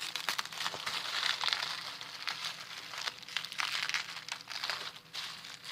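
Plastic bubble wrap crinkling and crackling as it is peeled and worked off a bar of set soap, an irregular run of small crackles and rustles.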